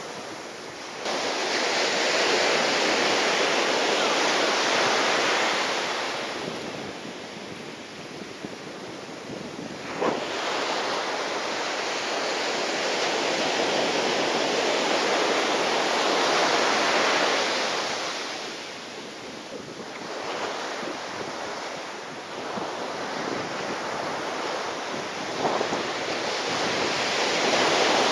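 Strong wind and surf noise rushing in long surges that swell and fade over several seconds, with wind buffeting the microphone, in typhoon conditions. Two brief sharp sounds stand out, one about ten seconds in and one near the end.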